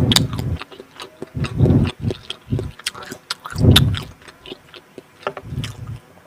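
Close-miked chewing of soft, chewy food, with wet mouth clicks and smacks. A low squelching chew comes in bursts about every two seconds.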